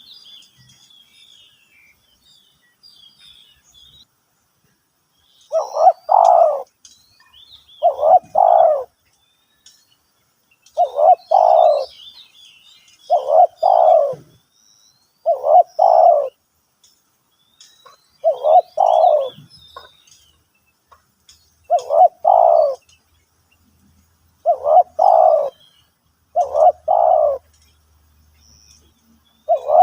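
Spotted dove cooing: a loud two-part coo repeated about every two and a half seconds, starting about five seconds in. Faint chirps of small birds run underneath.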